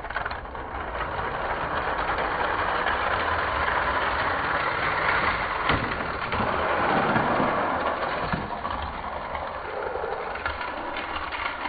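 Two Hot Wheels diecast cars rolling down plastic race track: a steady rushing rattle of small wheels on the track, with a few short knocks along the way.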